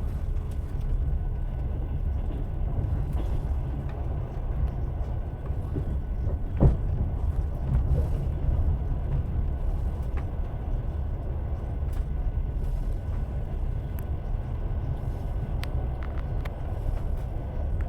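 Train wheels running on the rails with a steady low rumble, with a single sharp knock about six and a half seconds in and a few faint clicks.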